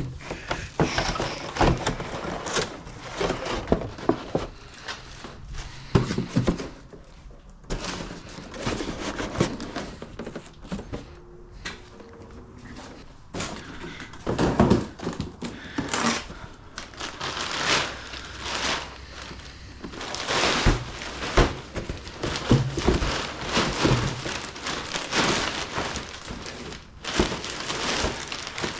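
Household clutter and boxes being picked up, shifted and dropped: irregular knocks, thuds and crinkling of cardboard and plastic, many times over.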